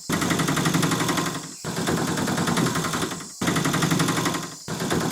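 A small motor running with a fast, even rattle. It comes in repeated stretches of about a second and a half, each cut off suddenly by a brief dropout.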